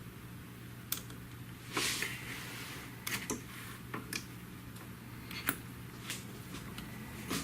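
Small irregular clicks and scrapes of a pick and terminal tool being worked into a plastic wiring connector plug to release its terminals, with one longer scrape about two seconds in.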